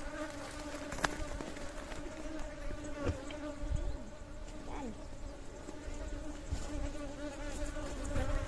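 Honeybees buzzing in flight around an opened hive, a steady hum with one clear pitch and its overtones. A sharp click about a second in.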